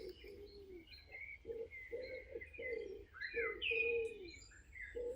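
Several birds calling: a run of short low hooting notes, about two a second, under higher chirps and whistles from other birds.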